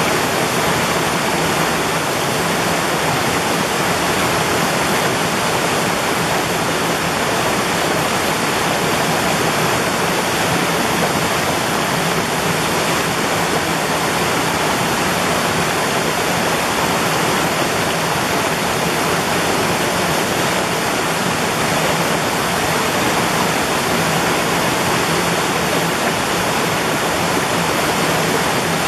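Mountain valley stream flowing steadily over rocks: an even, continuous rush of water.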